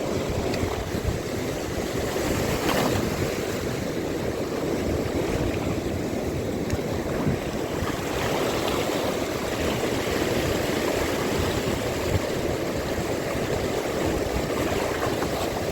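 Wind blowing on the microphone over lapping sea water: a steady rushing noise with a few faint clicks.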